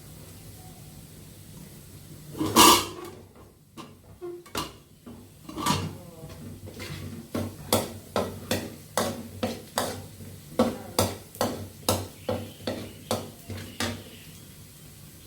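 Kitchen utensil knocks: a loud knock about two and a half seconds in, a few scattered knocks, then a long run of even knocks, about three a second.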